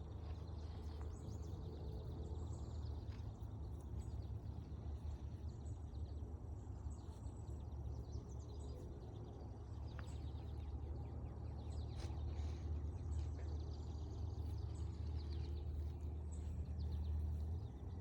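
Forest ambience: scattered high bird chirps and a steady high insect tone over a constant low rumble.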